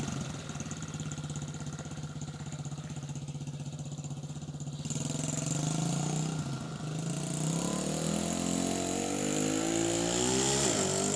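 Dirt bike engine running, low and steady at first, picking up about halfway through and rising in pitch as it revs near the end.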